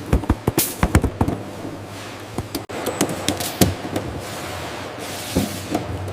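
Factory machinery clicking and clanking: a quick flurry of sharp knocks in the first second or so, then scattered single clunks, with short bursts of air hiss.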